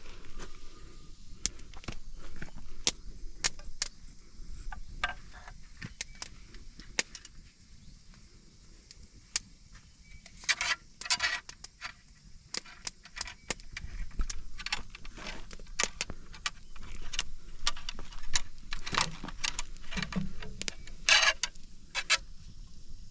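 Irregular light metallic clinks, taps and a few short rattling scrapes from handling a homemade muzzleloading gun while it is being loaded.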